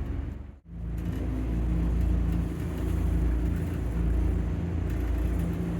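A houseboat's outboard motor running steadily under way, with wind rumbling on the microphone. There is a brief break about half a second in.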